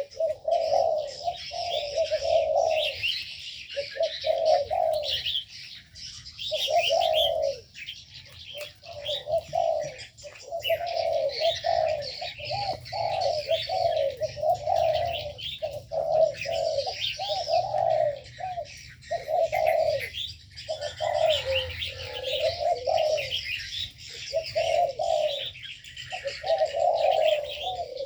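Spotted doves cooing over and over in an aviary, phrase after phrase with short gaps, while a crowd of small birds chirps constantly at a higher pitch.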